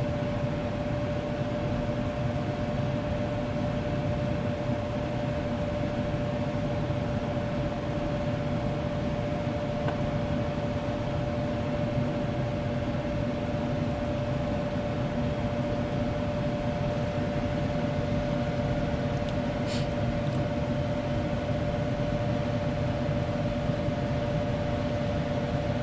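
Furnace blower fan running steadily, a constant whir with a steady hum tone and a faint single tick about twenty seconds in. It is the fan stage of the furnace starting up again after the bad solder joint on its control board was repaired.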